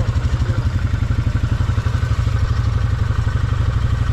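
ATV engine running at low, steady revs, its exhaust pulsing evenly at about ten beats a second.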